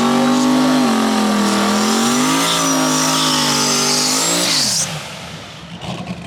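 Race car engine running at high revs during a drag strip pass. Its pitch dips and climbs back twice, then falls and drops away about five seconds in.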